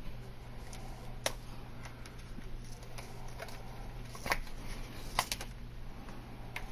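Protective backing being peeled off adhesive edge band and the strip handled: a few scattered sharp ticks and crackles, the loudest about a second in and twice more past the four-second mark, over a steady low hum.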